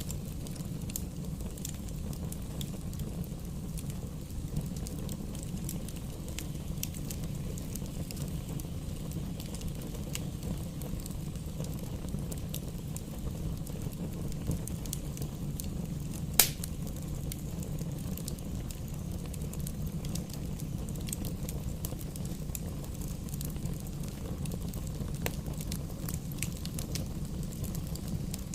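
Wood fire burning in a fireplace: a steady low rumble of flames with scattered small crackles, and one sharp, louder pop about halfway through.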